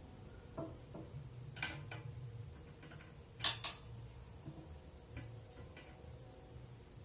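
A few scattered sharp clicks and knocks, the loudest a quick double click about three and a half seconds in, over a low steady hum.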